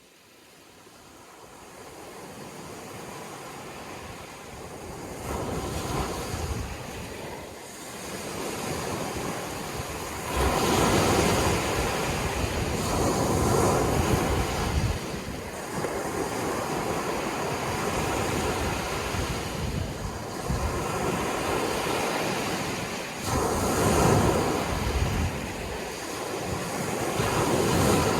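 Sea waves washing onto a shore, fading in over the first few seconds, then surging and receding every few seconds, with the loudest breakers about ten seconds in and again near the end.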